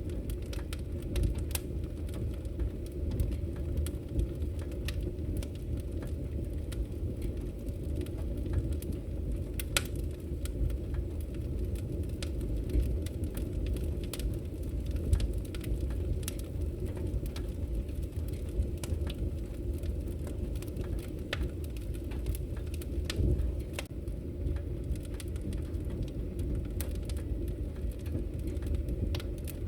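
Wood fire crackling in a fireplace: a steady low rumble of flames with many scattered sharp snaps and pops, a few of them louder.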